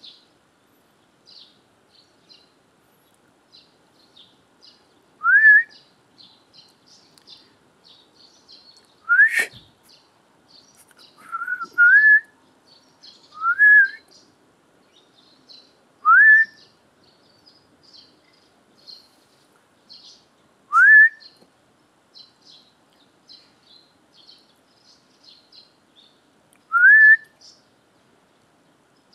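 A person whistling short rising notes to call a dog, about eight times at irregular intervals, two of them close together near the middle. Small birds chirp faintly throughout.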